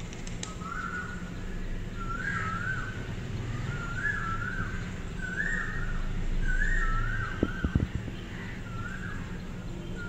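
A bird calling over and over: a short whistled call of a few stepped notes, about seven times, climbing a little in pitch towards the middle and then falling back. A low steady hum runs underneath, and a few sharp clicks come about three quarters of the way through.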